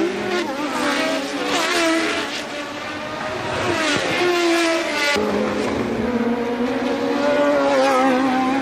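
Several 1982 Formula One race car engines running at racing speed, their pitch rising and falling with gear changes and as the cars pass. The sound shifts abruptly about five seconds in.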